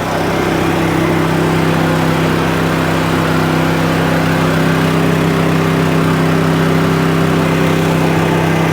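Engine running at a steady speed: an even drone with a strong low hum that does not change in pitch.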